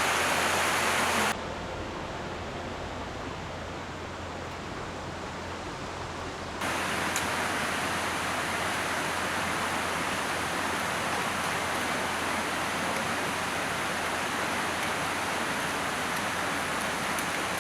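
Mountain stream water rushing steadily. The sound drops abruptly in loudness about a second in and jumps back up about six and a half seconds in.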